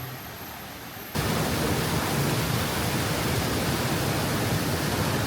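Loud, steady rushing water, cutting in abruptly about a second in.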